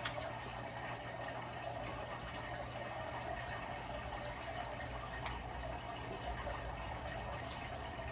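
Steady faint hiss with a low hum underneath and a few faint soft clicks: background room noise.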